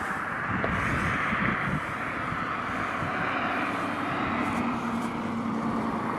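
Steady roadway traffic noise from vehicles passing on a parkway, with wind on the microphone. A low engine hum comes in about two-thirds of the way through.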